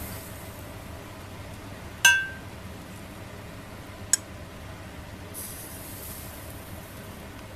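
A single ringing clink of tableware about two seconds in, then a lighter tick about two seconds later, and a short hiss after the middle.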